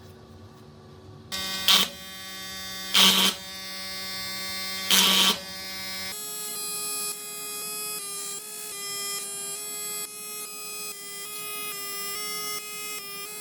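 A steady electrical buzz broken by three short, loud bursts. From about six seconds in it gives way to a run of short tones stepping through a simple tune, each note fading away.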